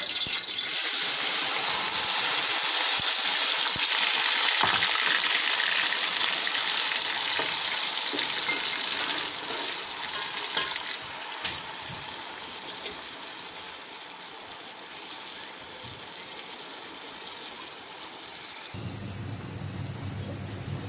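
Ground onion paste dropped into hot oil in an aluminium pot, bursting into a loud sizzle at once and then easing to a quieter, steady sizzle as it fries, with a few scrapes of a slotted spoon. Near the end the sizzle thins and a low hum comes in.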